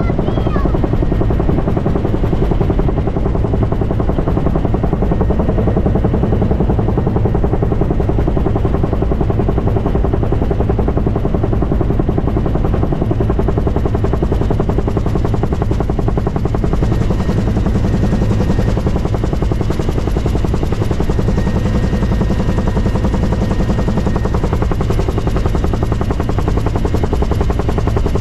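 Helicopter flying, its rotor blades beating in a rapid, steady rhythm over the engine's drone.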